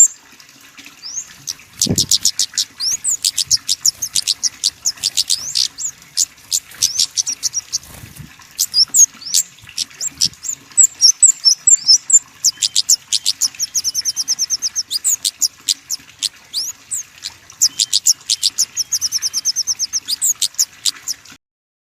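Small songbirds calling in quick, high-pitched chirps and short buzzy trills, many notes a second, before stopping abruptly near the end.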